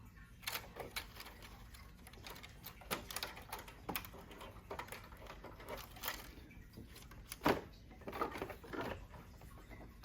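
Scattered small clicks, light plastic knocks and handling rustle as cable connectors are pried off a printer's main board one by one, with the loudest knock about seven and a half seconds in.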